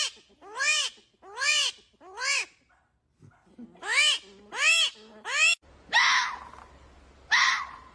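A series of short animal calls, each rising and falling in pitch, about one every 0.8 s. About six seconds in, a different animal takes over with two harsher, raspier calls over a steady background hiss.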